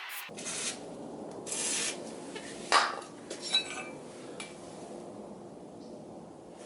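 Metal parts being handled: a few short scrapes, a sharp knock about three seconds in, then a few ringing metal clinks.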